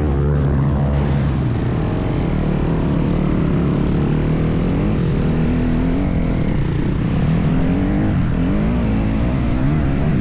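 Motocross bike engine running loud under riding, its pitch rising and falling again and again as the throttle is opened and closed.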